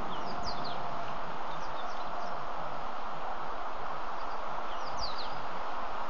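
Wild bird calls: short, quick, downward-sweeping chirps in two clusters, near the start and again about five seconds in, with a few faint ones between, over a steady outdoor hiss.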